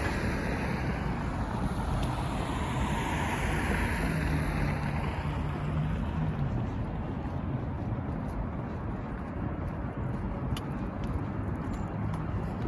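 Outdoor city traffic noise with a motor vehicle passing by, swelling and fading over the first six seconds with a low engine hum near its closest point. Wind buffets the microphone throughout.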